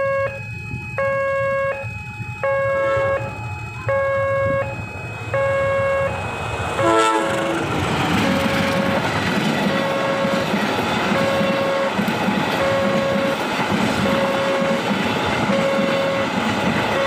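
A railway level-crossing warning alarm sounds a repeating electronic two-tone pattern, about one beat every 0.7 s. About seven seconds in a diesel-hauled passenger train gives a short horn blast, and then the train's running noise and wheel rumble build and carry on under the still-sounding alarm as it passes.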